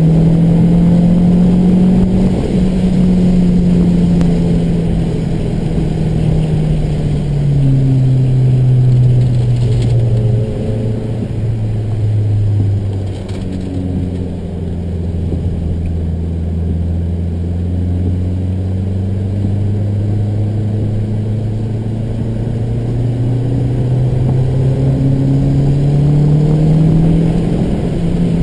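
MazdaSpeed3's turbocharged four-cylinder engine heard from inside the cabin while being driven at speed on a track. Its note falls slowly through the first half, bottoms out around the middle, then climbs steadily under acceleration toward the end.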